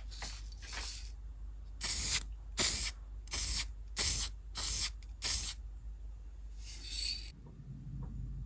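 An aerosol spray can hissing in a run of six short, evenly spaced bursts about two-thirds of a second apart, then one longer spray near the end. Two fainter bursts come first.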